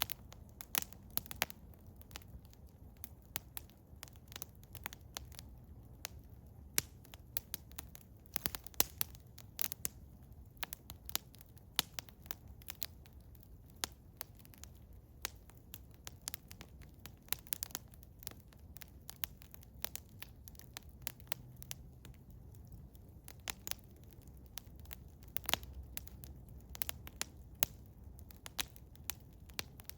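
Eastern hemlock wood fire crackling, with frequent irregular sharp pops and snaps over a faint low rumble.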